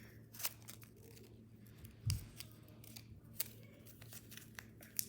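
A square sheet of origami paper being folded and creased by hand, with a few sharp paper crackles and a soft thump about two seconds in. A steady low hum runs underneath.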